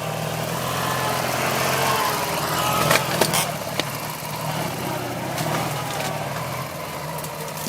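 Modified Ural motorcycle's engine running steadily, with a few sharp clicks about three seconds in.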